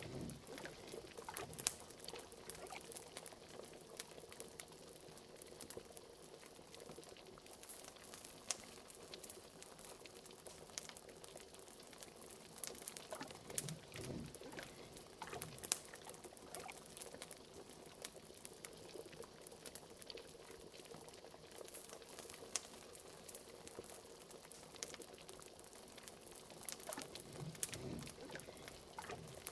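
A cauldron of liquid bubbling at a steady boil over a fire. Frequent sharp pops and crackles run through the bubbling.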